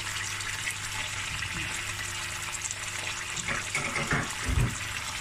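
Beef bones and tomato paste sizzling steadily in a pot, with a low steady hum underneath. A few brief low thumps and scrapes come about three and a half seconds in.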